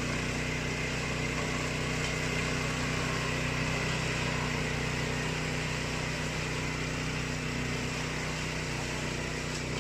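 Engine of a remote-control flail mower running steadily at an even speed.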